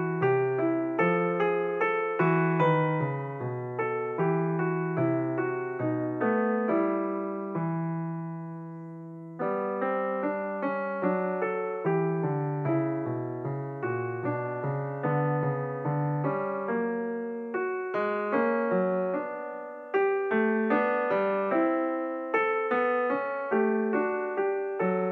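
Background piano music, a steady stream of struck notes; twice a held chord fades away before the playing picks up again.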